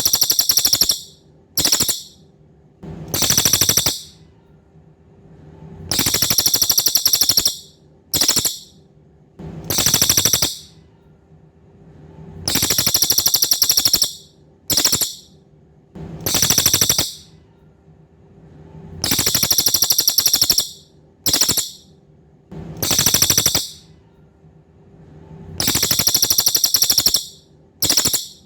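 Cililin songbird calling: high, rapid, buzzy trills of about a second each, alternating with short clipped bursts, repeating steadily every three to four seconds.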